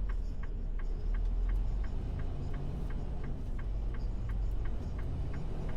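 Turn-signal flasher clicking steadily inside a semi truck's cab, about three clicks a second, over the low steady rumble of the truck's engine.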